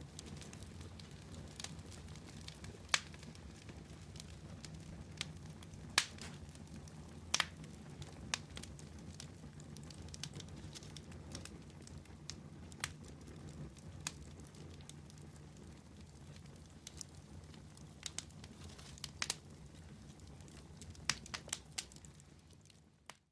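Wood campfire burning, with a steady low rumble of flames and irregular sharp crackles and pops from the wood. Near the very end the sound fades out briefly.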